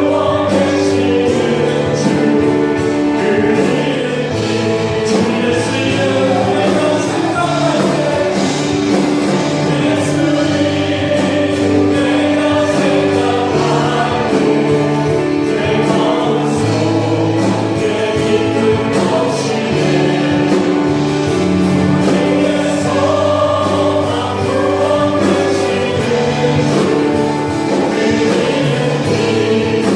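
Church praise team singing a Korean worship song together over live band accompaniment with a steady beat.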